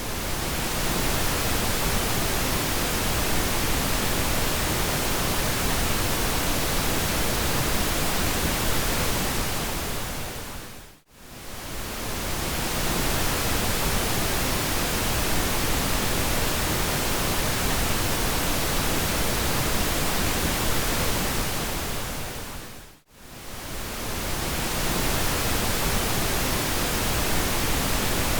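Steady synthetic pink noise, an even hiss spread from deep lows to highs. It fades briefly to near silence and swells back twice, about eleven seconds in and about twenty-three seconds in, where the looped track restarts.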